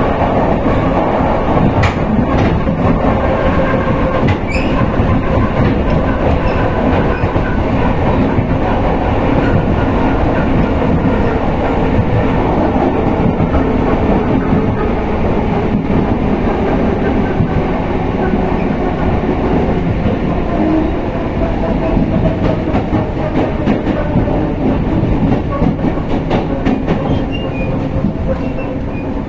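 Suburban electric train (elektrichka) running at speed, heard from inside the carriage: a steady rumble of wheels on the track with the repeated clickety-clack of rail joints.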